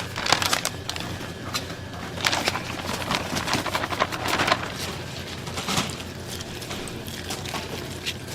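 Irregular sharp knocks and clatter over a steady low hum.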